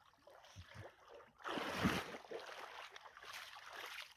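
A dog paddling hard against a stream's current, splashing water and making a snorting, oink-like noise through her nose as she strains. The splashing and breathing swell about a second and a half in and carry on until just before the end.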